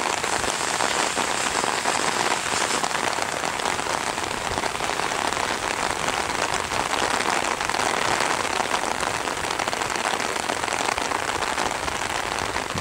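Steady rain, a dense, even patter of many drops close to the microphone, falling on the umbrella held over the camera.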